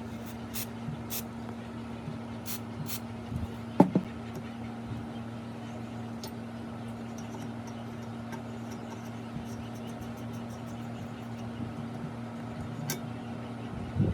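A motor running steadily with a low hum, with scattered sharp clicks and one loud knock about four seconds in.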